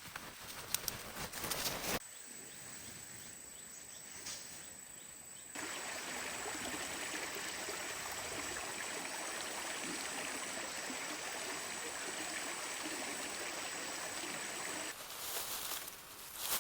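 Steady hiss of rain, starting abruptly about a third of the way in and cutting off shortly before the end. The first couple of seconds hold scattered clicks and knocks.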